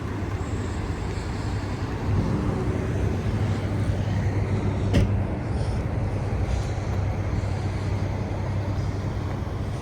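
Idling car engine: a steady low rumble, with one sharp click about halfway through.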